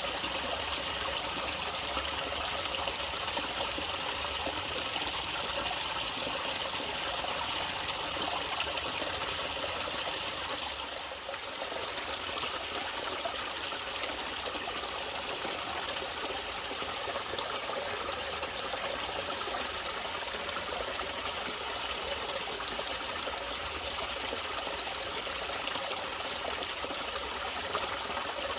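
Natural flowing water trickling and splashing steadily, like a small stream, with a brief dip in level about eleven seconds in.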